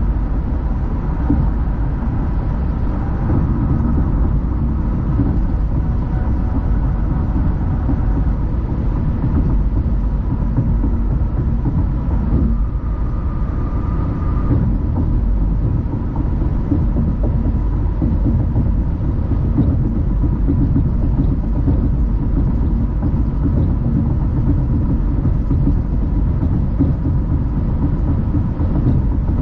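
A car driving along the road: a steady rumble of road and engine noise that holds even throughout.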